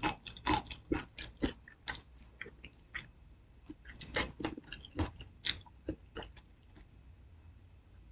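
A person chewing and biting fried chicken close to the microphone: a quick run of crunches and wet smacks that thins out after about six seconds.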